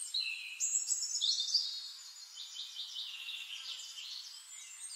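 Birds chirping and trilling in quick short calls that slide up and down, busiest in the first second and a half, over a faint steady high insect whine. The sound is thin and high, with no low sound under it.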